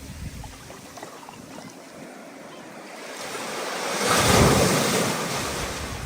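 Ocean surf in a building storm: a wave swells about three seconds in, breaks loudly near the middle and washes back, with wind buffeting the microphone.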